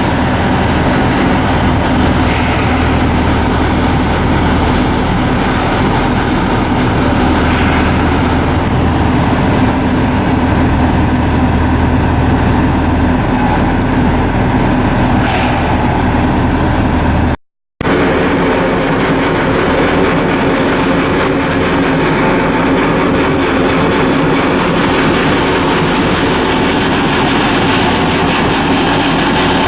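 Large diesel engine running steadily with a deep, even hum. It breaks off for a moment about halfway through and resumes with a slightly different tone.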